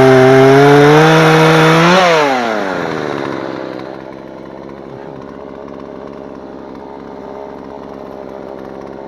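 Chainsaw engine at full throttle, then let off about two seconds in, its pitch falling as it winds down to a steady idle.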